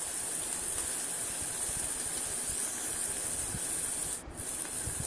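Chopped onions and bay leaves sizzling steadily in oil in a stainless steel saucepan. The sizzle drops away briefly about four seconds in.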